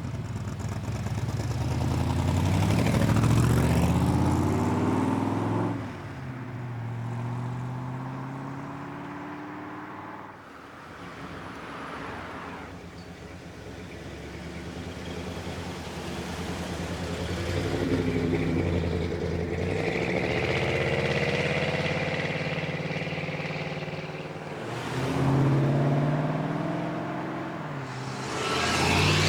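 Several cars accelerating away one after another, each engine revving up with a rising exhaust note and then fading. The loudest passes come about three seconds in, around eighteen to twenty-two seconds, and twice more near the end.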